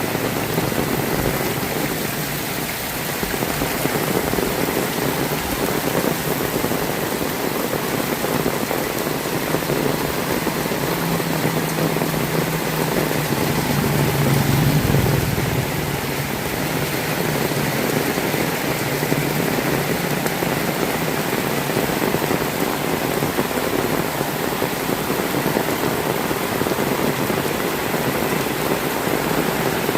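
Heavy rain falling steadily. About halfway through, a low engine hum swells and fades, as of a motor vehicle passing through the rain.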